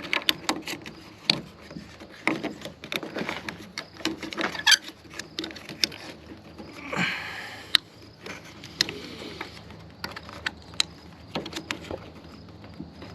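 Hands working car parts loose by hand: scattered clicks, knocks and taps, with a short scraping rustle about seven seconds in.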